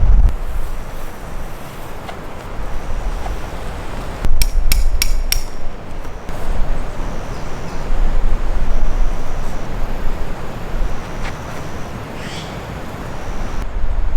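Strong wind gusting across the microphone, with four sharp knocks in quick succession about four seconds in and another single knock later.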